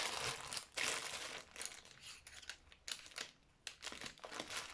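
Paper and card being handled, rustling and crinkling in short irregular scrapes.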